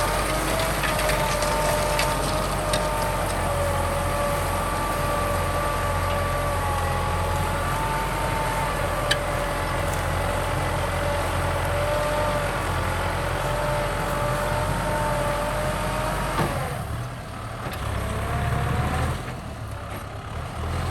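Kubota M6040 tractor's diesel engine running steadily with a whine over it; the sound drops away about sixteen seconds in and comes back briefly near the end.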